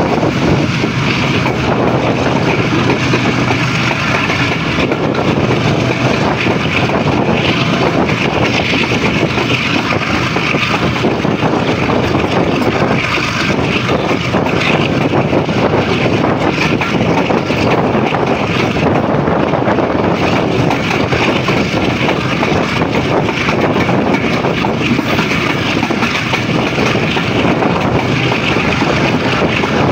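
Steady running noise of the 1 Up Khyber Mail passenger train moving at speed, heard from aboard: wheels on the rails with wind, unbroken throughout.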